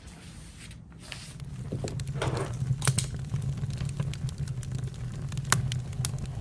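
Campfire crackling, with scattered sharp pops over a low rumble that grows louder about a second and a half in.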